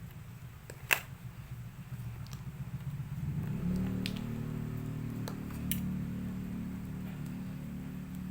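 A sharp click about a second in, then a low steady hum, like a small electric motor, that swells in about three seconds in and holds, with a few light clicks over it.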